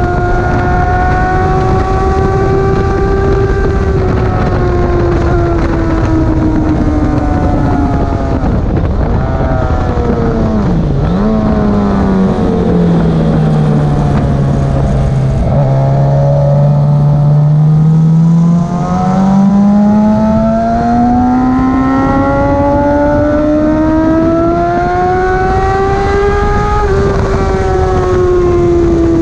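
Racing motorcycle engine at full speed on a track. The engine note drops steadily as the bike slows for a corner, holds low for a few seconds, then climbs as it accelerates again, with a shift near the end. A steady rushing noise runs under the engine.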